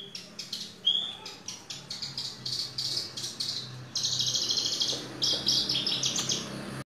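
Horsfield's bush lark (branjangan) singing: a fast, unbroken run of high chirps and buzzy trills, with two short whistled notes in the first second, cutting off abruptly near the end.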